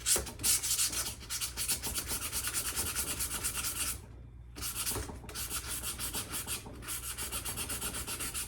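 Sandpaper being rubbed by hand over a rusty steel axe head in rapid back-and-forth strokes, about four or five a second, with a brief pause about four seconds in.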